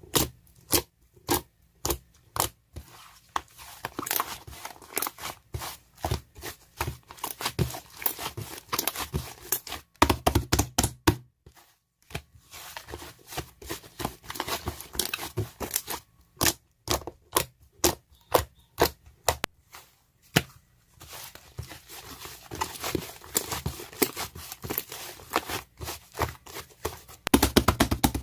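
Fluffy slime being squished and stretched by hand: an irregular run of sharp pops and clicks from trapped air, between stretches of crackling and tearing.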